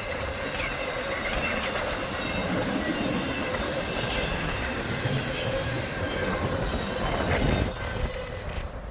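Freight train cars rolling past on the rails, with faint wheel squeal over the rumble of the wheels. The noise eases off near the end as the last cars go by.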